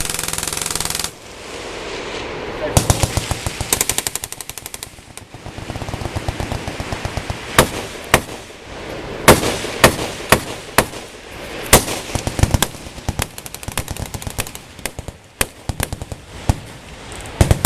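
Machine guns firing on a range. A stream of shots so fast they run together cuts off about a second in. Bursts of automatic fire follow a few seconds in, then scattered single shots and short bursts from several guns.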